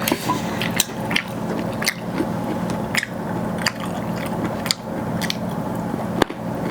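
Close-miked eating sounds: a person chewing a mouthful of rice and chicken gravy, with irregular wet clicks and smacks over a steady low hum.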